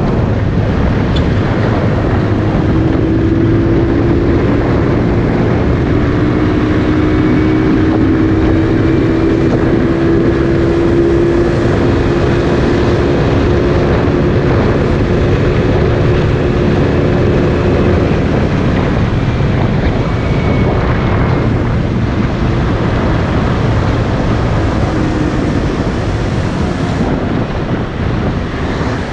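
Motorcycle engine running under way, its note climbing slowly for much of the time, with wind rushing over the microphone.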